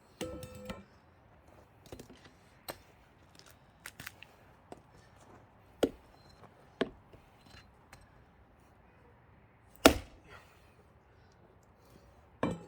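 Heavy blows splitting an already-cracked pine log with axe and hammer. There is a ringing metallic clang at the start, then single sharp knocks every few seconds, the loudest about ten seconds in, with fainter taps between.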